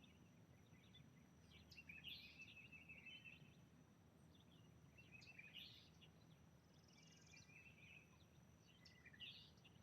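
Faint bird chirps and snatches of song in near silence, coming in a few short bouts a couple of seconds apart.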